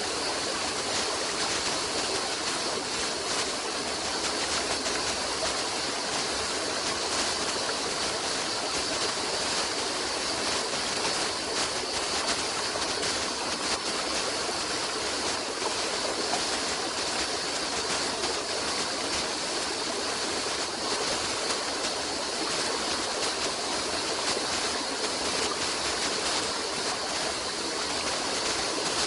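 Stream water flowing steadily, an even rushing sound with no pauses or changes.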